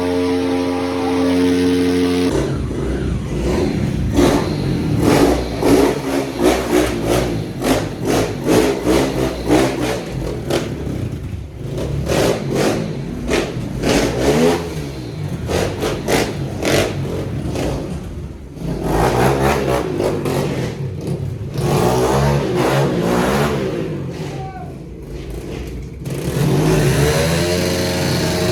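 Pit bike engine revving in repeated bursts, its pitch climbing and dropping quickly, with a steadier run at the start and again near the end.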